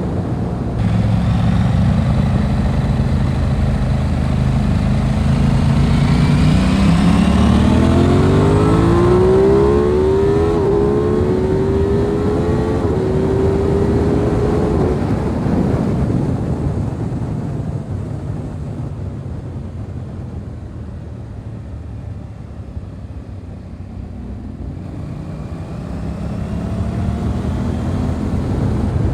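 Aprilia RS 660's parallel-twin engine accelerating hard, its pitch climbing and stepping through a couple of quick upshifts, then easing off and running quieter for several seconds before building revs again near the end.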